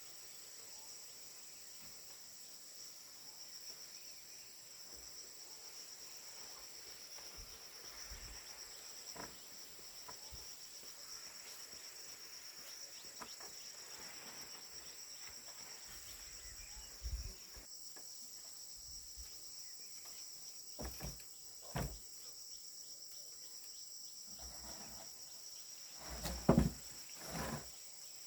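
Steady high-pitched chorus of insects, such as crickets, singing throughout. A few short knocks break in during the second half, the loudest a cluster near the end.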